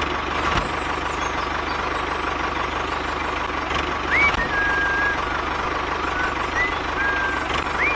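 Small electric motor of a toy tractor or crusher running steadily, a whirring hum with a faint fixed tone. A few short, high held tones come in over it in the second half.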